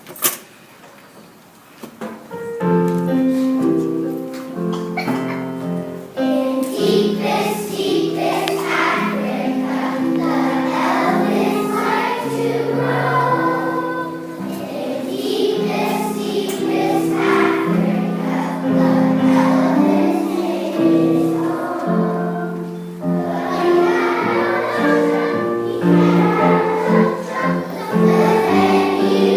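A sharp knock, then about two seconds later a group of children starts singing together over musical accompaniment, and the song continues.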